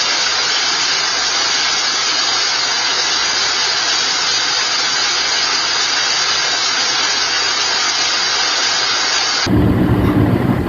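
Heavy rain pouring in a storm: a loud, steady hiss with no rhythm or gusting, which cuts off abruptly near the end.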